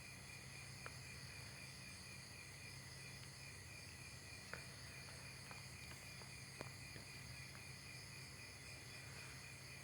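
Crickets and other insects trilling steadily, one of them in an even pulsing chirp, with a low hum under them and a few faint clicks.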